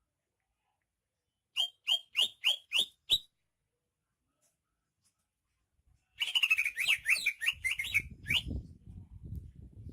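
Cucak ijo (green leafbird) singing: a run of six sharp, quickly falling whistled notes, a pause of about three seconds, then a fast, rich warbling phrase. A low rumbling noise comes in under the song near the end.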